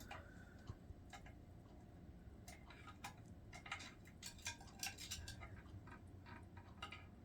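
Faint, irregular light clicks and taps from an African grey parrot clambering about on her chew toy and chair, coming thickest in the second half.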